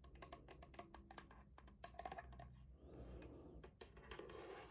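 Keys of a Logitech G Pro TKL mechanical keyboard pressed lightly, a run of faint clicks, then a soft rustle of handling about three seconds in.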